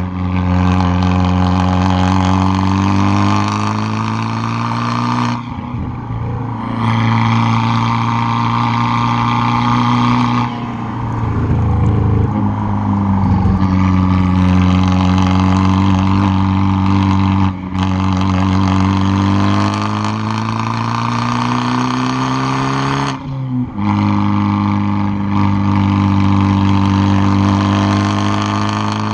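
Straight-piped exhaust of a tuned 2013 Fiat 500 Abarth's turbocharged 1.4-litre four-cylinder, heard right at the tailpipe under hard driving. The revs hold and climb, then break and drop about four times as the driver shifts or lifts off, and pick up again.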